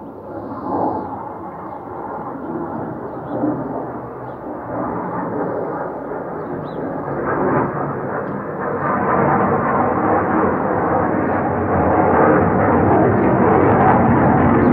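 Aircraft engine noise at an air show, a steady rushing drone that grows louder as the plane approaches.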